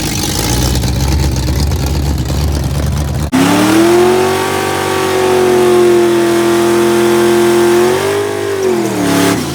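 A rumbling, noisy engine sound. It cuts off abruptly, and a drag car's engine comes in at high revs, holding one steady note for several seconds before the pitch wavers and drops near the end.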